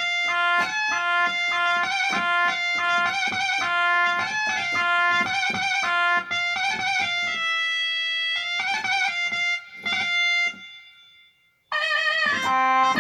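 Korg Pa600 arranger keyboard playing a running Arabic-style melodic phrase on a sampled Kronos voice, the notes held with vibrato; it breaks off for about a second near the end, then starts again.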